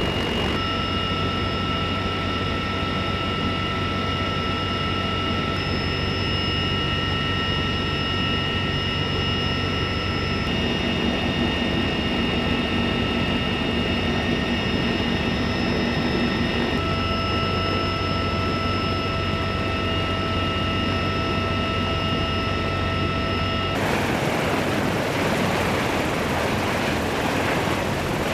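CH-53E Super Stallion helicopter's three turbine engines running: a steady, loud whine made of several held tones. About 24 seconds in, it gives way to a rushing rotor noise that fills the whole range.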